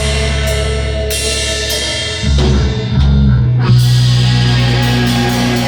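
Rock band playing without vocals: drum kit with cymbal crashes over bass and electric guitar. About three and a half seconds in, the band lands on a chord and holds it while the cymbals keep washing.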